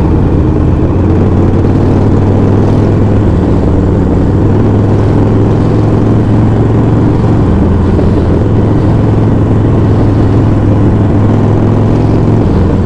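Motorcycle engine running steadily at an even pitch, loud and close.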